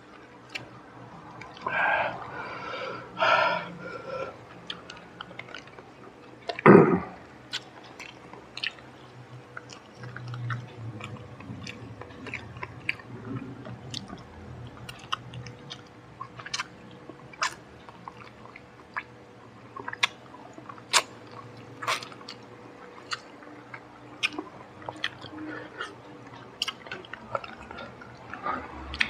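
A man chewing and smacking his lips while eating crispy smashed fried chicken with his hands, with many sharp wet mouth clicks. A few louder mouth noises come in the first seconds, the loudest about seven seconds in.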